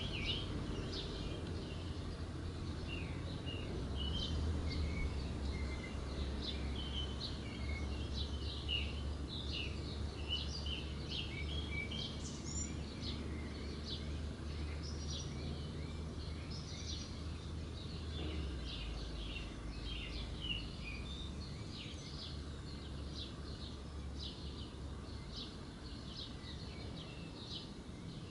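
Birds chirping with many short, quick notes throughout, over a low steady rumble that eases about two-thirds of the way through.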